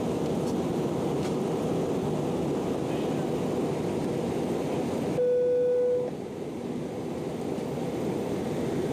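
Steady rushing cabin noise of an Airbus A319 airliner in flight. About five seconds in, the noise drops suddenly and a single steady electronic beep sounds for about a second, typical of a cabin chime.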